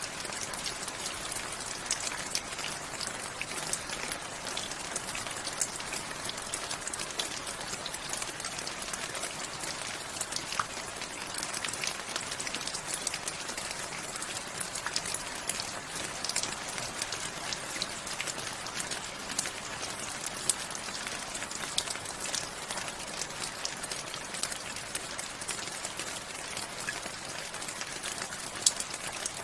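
Steady rain, a constant even hiss with many sharp, close drop ticks scattered through it.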